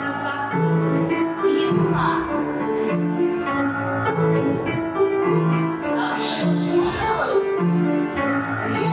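Piano music accompanying a folk-dance exercise at the barre, in a steady metre with a bass note about once a second. A few short noisy sounds come through the music about six to seven seconds in.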